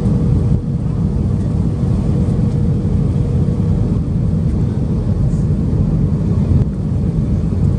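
Airbus A320 cabin noise: a steady, loud, low rumble of airflow and engines heard from inside the cabin, with a faint steady hum that fades out about halfway through.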